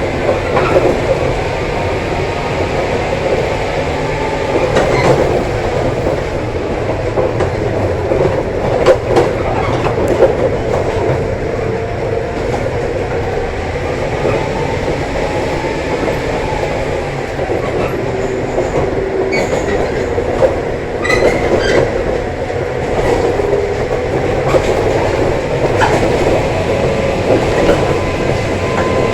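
JR 103 series 1500-subseries electric train running under power, its motor tone swinging up and down over several seconds as the wheels repeatedly slip on the rain-wet rails. Scattered sharp clicks sound over the steady running noise.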